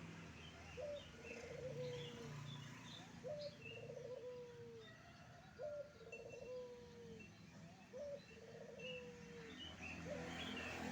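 Wild zebra dove cooing: five calls about two and a half seconds apart, each a short note, a quick stuttering trill and a drawn-out falling coo. Smaller birds chirp faintly in the background.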